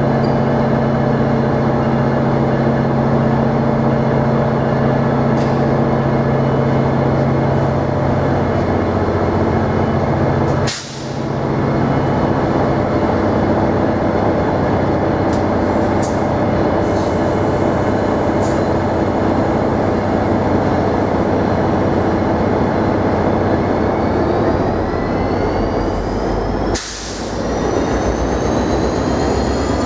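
Passenger train running at close range: a steady low engine hum over loud rolling noise, with a whine that rises in pitch over the last few seconds as it gathers speed. The sound drops out briefly twice, a little after ten seconds and again near the end.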